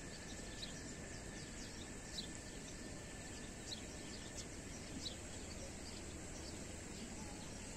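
Steady outdoor background noise with short, high bird chirps recurring every second or so, over a faint steady high tone.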